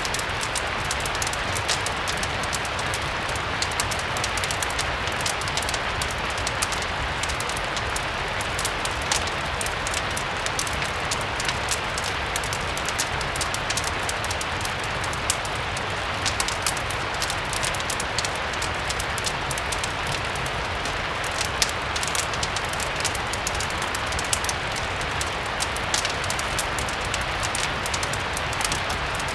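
Steady rain mixed with a crackling fireplace: an even hiss dotted with frequent small, sharp ticks and crackles.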